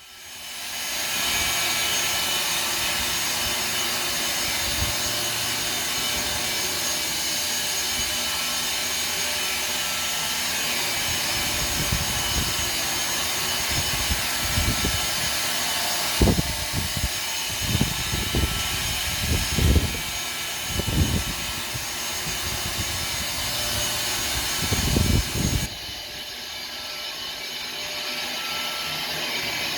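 A 5x10 CNC machine running its warm-up move: a steady mechanical rush with several steady high tones, coming up within the first second. A run of low thumps falls through the middle, and near the end the sound drops and loses its highest part.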